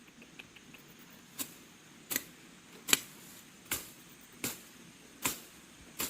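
Sharp knocks at an even pace, about one every three-quarters of a second, seven in all, with a few faint ticks before them.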